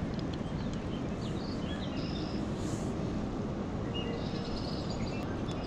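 Small birds chirping several times, short high notes, over a steady outdoor rush of background noise.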